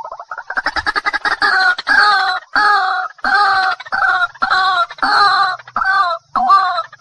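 Water hen (jal murgi) calling: a quick stuttering run of short notes, then loud, harsh, repeated calls about two a second.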